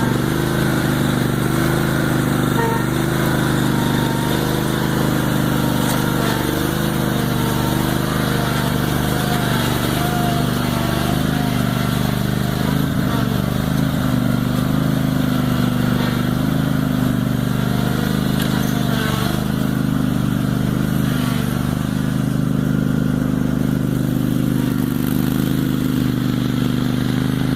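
Craftsman GT garden tractor engine running steadily while pulling a sleeve-hitch plow through dirt; its pitch wavers a little in the first half as the load changes, then holds steady.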